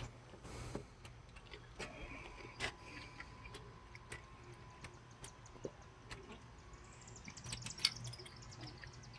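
Faint, scattered metallic clicks and taps as alternator mounting bolts are threaded in and snugged hand tight on a truck engine. A quicker run of brighter clicks comes near the end.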